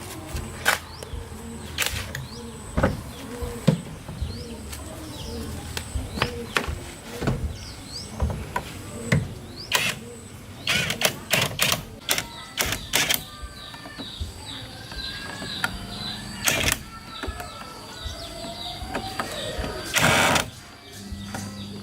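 Scattered sharp metallic clicks and knocks of hand tools working on car parts, with birds chirping in the background, most busily in the second half.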